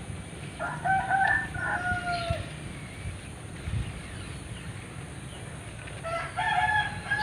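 A rooster crowing twice: one full crow about half a second in, then a second, shorter crow near the end.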